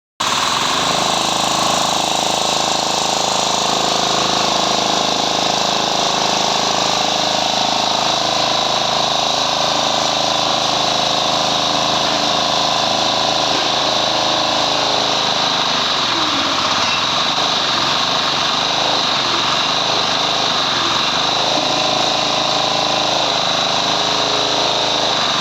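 Small 8 hp diesel engine driving the hydraulic pump of a soil interlocking brick press, running steadily.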